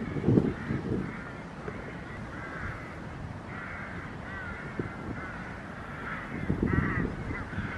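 Birds calling over and over in short, wavering calls, with low rumbles, loudest about half a second in and near the end.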